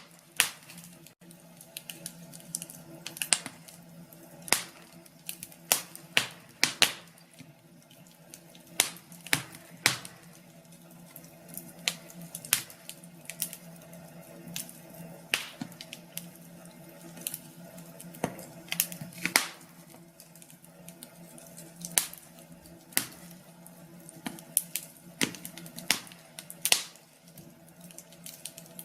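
Wood fire in a fireplace crackling, with sharp pops at irregular intervals, a louder one every second or two.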